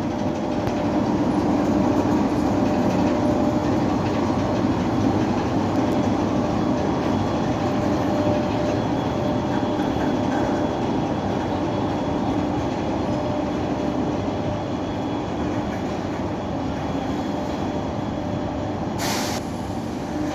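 Passenger train hauled by an EP1M electric locomotive pulling out of a station: a steady rolling rumble of wheels on rails with a faint steady hum, slowly easing off. A short hiss comes near the end.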